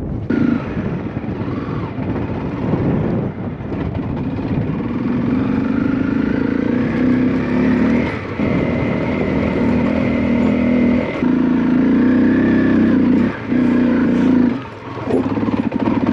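Single-cylinder engine of a Honda CRF 250L dual-sport motorcycle running under way off-road. The engine note holds steady, dipping briefly about eight seconds in and twice more near the end.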